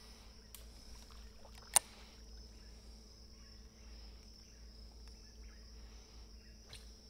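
Steady high-pitched insect chorus, with one sharp click about two seconds in and a few fainter knocks.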